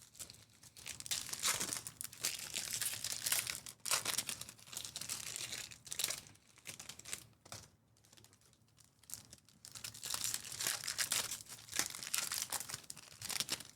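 Trading card pack wrappers crinkling and being torn open, in two long stretches of rustling with a lull about six to eight seconds in.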